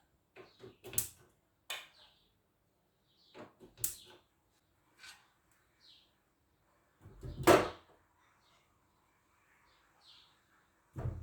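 Kitchen handling sounds: utensils and containers clicking and knocking against each other and the counter, a few sharp knocks spaced a second or two apart, the loudest and longest about seven seconds in and another near the end. Faint short bird chirps sound between them.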